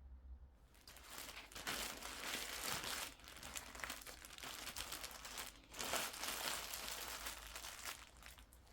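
Crinkling and rustling of something being handled, in an irregular run that starts about half a second in, with brief pauses.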